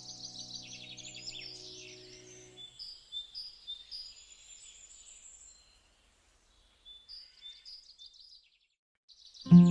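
Birds chirping and trilling in quick repeated high notes, over soft held music notes that fade out about two and a half seconds in. The chirps thin to a few faint calls, and music comes back in loudly at the very end.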